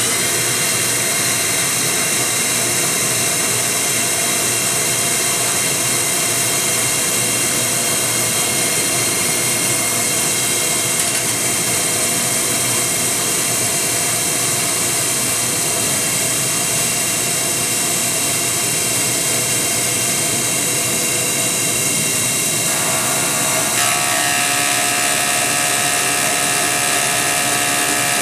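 CNC milling machine's belt-driven spindle running at about 6,000 RPM while an indexable insert cutter roughs out a part, with a chip-clearing air blower hissing. The set of whining tones shifts about 23 seconds in as the cut changes.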